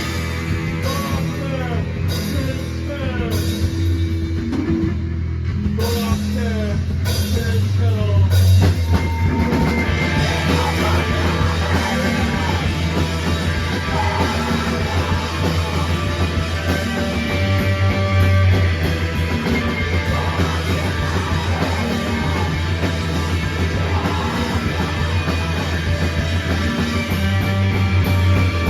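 Rock band playing loud live music with distorted guitars, bass and drum kit. A sparser opening of sliding notes gives way to the full band about five or six seconds in.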